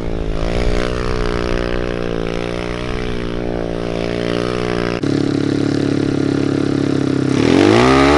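Small single-cylinder pit bike engine running, its pitch wavering with the throttle. The sound changes abruptly about five seconds in, then the engine revs up and back down near the end.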